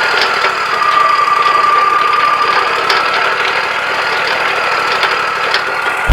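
Wood-Mizer LT40 portable sawmill running steadily, its whine dipping slightly in pitch about a second in before settling back, with a few faint clicks.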